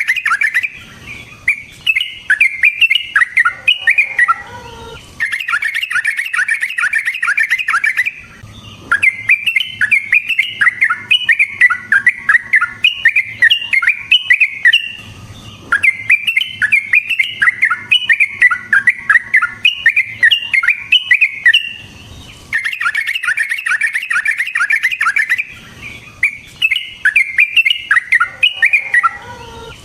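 Yellow-vented bulbul (trucukan) singing long, rapid runs of chattering notes, phrase after phrase with brief pauses between them.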